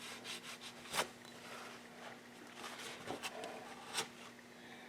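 Faint rubbing of a rag along the crankcase seam of a Yamaha WR426F engine, wiping off squeezed-out anaerobic sealant. A few light clicks are mixed in, the sharpest about a second in and another near the end.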